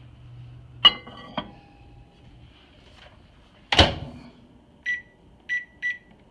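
Microwave oven being loaded and started: a sharp click with brief ringing about a second in, a loud thud as the door shuts, then three short keypad beeps as the heating time is set.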